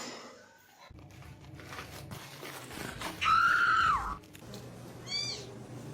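A cat's single drawn-out meow, about a second long, held at a high pitch and dropping at the end, followed near the end by a short high chirp.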